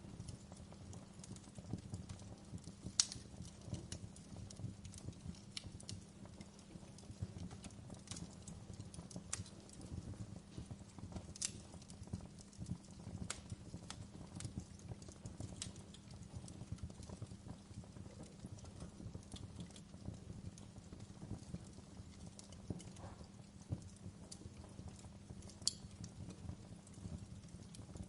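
Log fire crackling: a steady low rumble of burning with frequent small crackles and sharp irregular pops, the loudest about three seconds in.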